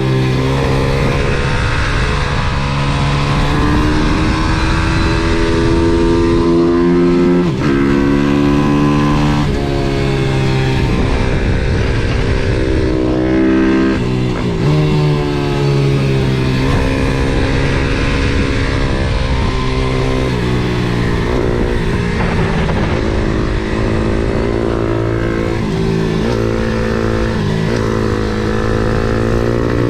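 MRF 140 SM pit bike's single-cylinder four-stroke engine under hard riding. It revs up and drops suddenly several times as it shifts gear, and its pitch falls away under deceleration before it pulls again.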